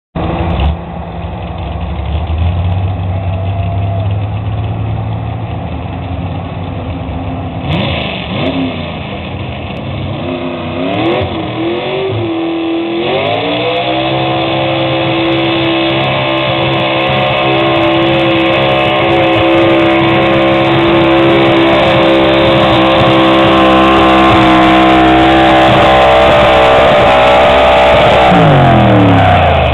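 A 4x4 pickup truck's engine at a truck pull: running low with a few revs, then climbing to high revs about halfway in and holding there steadily under the load of the pull sled for about fifteen seconds, before dropping off near the end.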